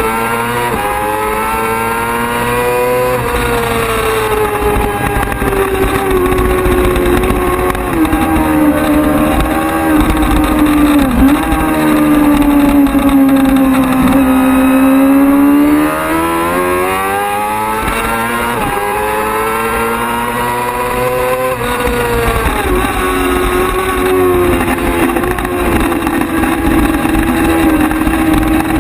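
Racing sportbike engine at full race pace, its pitch climbing, dropping suddenly and sweeping back down as it accelerates, shifts gears and slows for corners.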